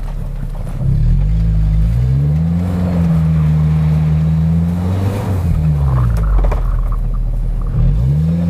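Off-road SUV engine revving under load on a snowy climb. Its pitch climbs, holds high for a couple of seconds, drops off about halfway through, then climbs again near the end.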